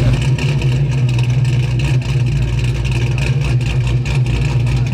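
Car engine idling with a steady, loud low rumble and a slightly uneven pulse.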